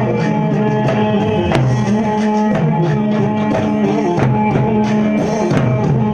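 Loud live band music with a steady drum beat and sustained keyboard tones.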